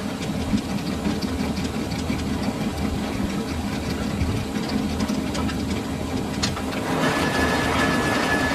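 Metal lathe running with a steady hum and rattle. A sharp tick comes about six and a half seconds in, and just after it the sound gets louder and a thin, steady high tone joins in.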